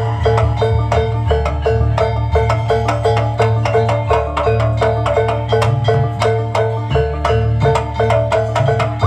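Jaranan gamelan ensemble playing: a fast, steady run of struck metal-keyed notes over a low drum and gong part.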